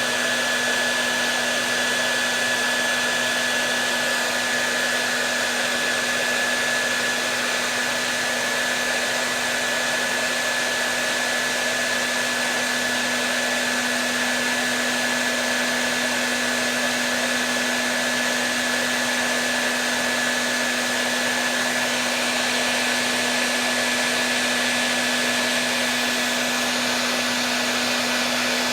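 Electric hair dryer running continuously: an even rush of blowing air with a steady motor hum and a thin high whine.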